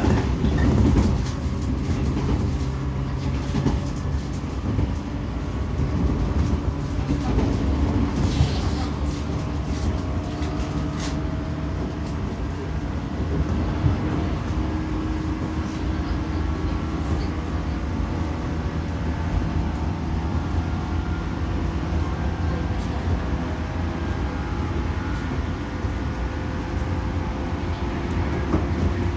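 JR 115 series electric train running, heard from inside the car: a steady rumble of wheels on rail with a running tone from the drive, and a cluster of sharp clicks about a third of the way through.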